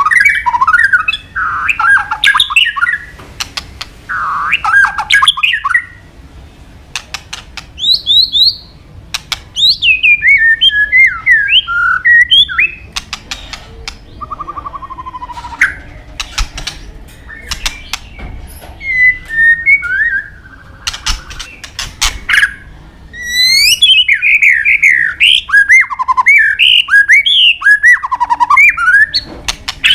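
White-rumped shama (murai batu) singing: loud bursts of quick, varied whistles, slurred notes and sharp clicks, broken by short pauses. A long falling whistle comes about halfway through, then rising whistles lead into a long, dense phrase near the end. The song is packed with 'isian', the mimicked calls of other birds that keepers prize.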